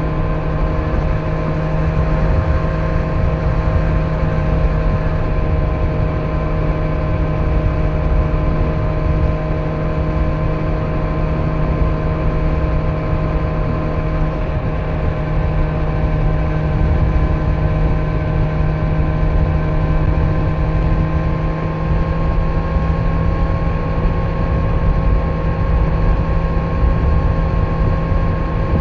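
2025 Kawasaki Z900 inline-four on its stock exhaust, running at a steady cruise. The engine note edges up slightly in the last third. A low rumble of wind and road noise runs under it.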